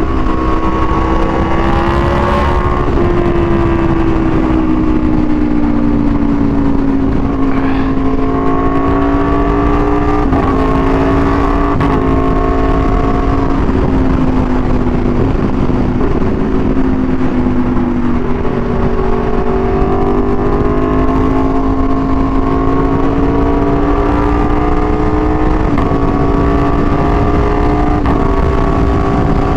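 Aprilia Tuono V4 1100's V4 engine through an SC-Project exhaust, running at a fairly steady cruise while being ridden. Its pitch sinks slowly over the first half, with a few small steps, and climbs gently again in the second half.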